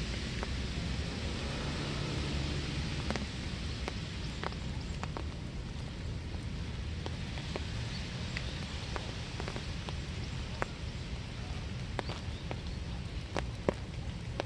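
Steady winter rain falling, with many separate drops ticking sharply on nearby surfaces at irregular moments, over a low steady rumble.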